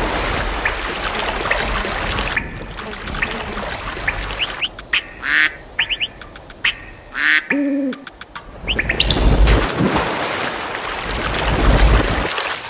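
Birds chirping in short high calls, with a lower quacking call about two-thirds of the way through, over a steady rushing noise.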